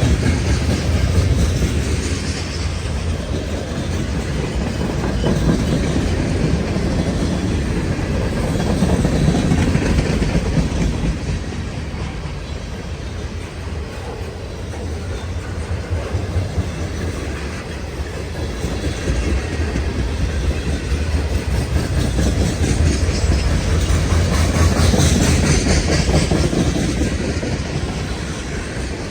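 Cars of a CN freight train rolling past at track level, wheels clacking over the rail joints with a continuous rumble that swells and eases as the cars go by.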